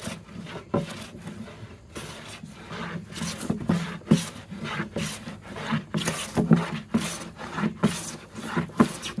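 No. 5 jack plane (a metal bench plane) taking repeated shavings off a wooden board, a rasping swish on each stroke, about one to two strokes a second.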